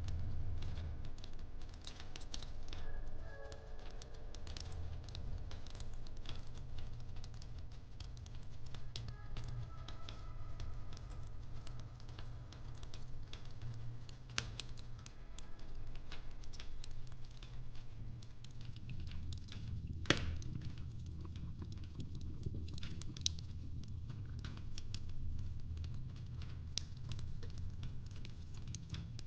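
Fireplace crackling: a steady low rumble with many irregular small pops and snaps, and one sharper pop about 20 seconds in.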